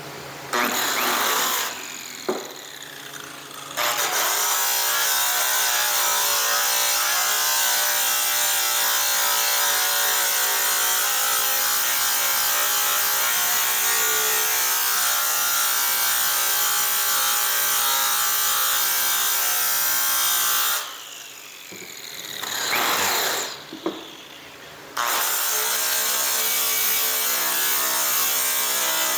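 Hand-held electric polisher running at speed against a metal aircraft exhaust pipe. Twice it is switched off, winds down with a falling whine, and starts up again a second or two later.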